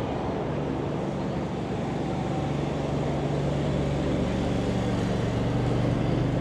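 City street traffic noise with a nearby motor vehicle's engine humming low and steady, growing a little louder in the second half.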